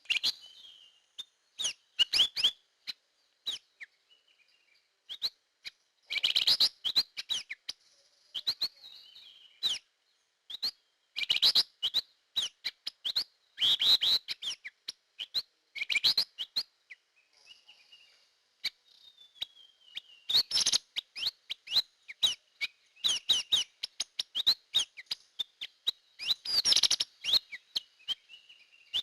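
Drongo (srigunting) calling in repeated bursts of sharp, rapid chirps and whistled notes, with quieter falling whistles between the bursts. This is a bird-lure recording of its call.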